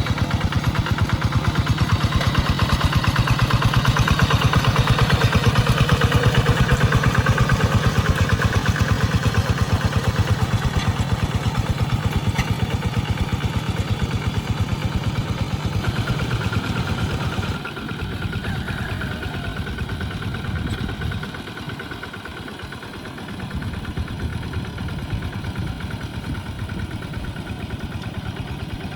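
Tractor engine running with a fast, even firing beat. A little past halfway the sound abruptly turns duller and quieter, sags for a couple of seconds, then steadies.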